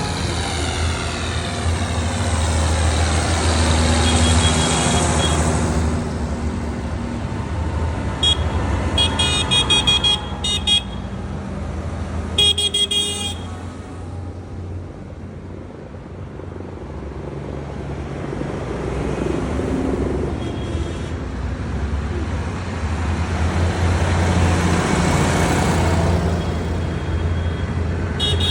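Trucks driving past one after another, their engines swelling and fading as each goes by. About eight seconds in there is a run of short horn toots, then another burst of horn a few seconds later.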